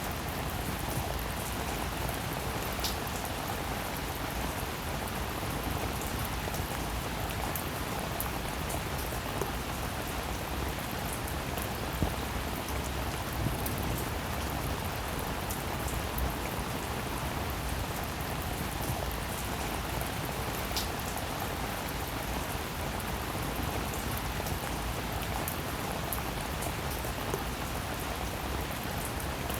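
Steady, even rainfall, with a few louder single drops striking close by now and then.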